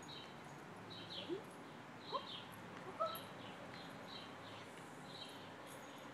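A bird chirping repeatedly in short high notes, about two a second. Three short rising squeaks come between one and three seconds in.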